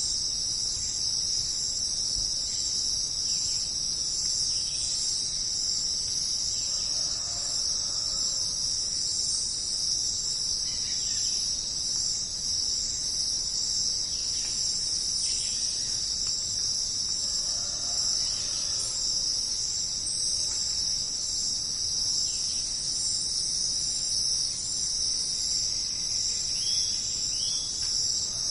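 Chorus of crickets chirping in a dense, steady high trill, with faint short bird calls now and then.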